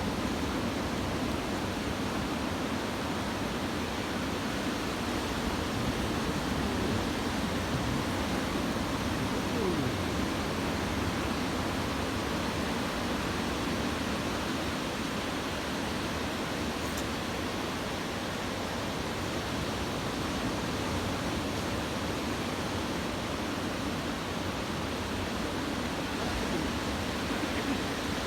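Ocean surf from a typhoon swell breaking on a beach, heard as a steady, even rush of noise with no single wave standing out.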